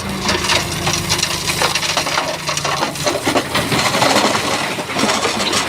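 Shantui bulldozer pushing big stones: rocks clattering and grinding against each other in a dense run of knocks, over the dozer's diesel engine drone, which drops away about three seconds in.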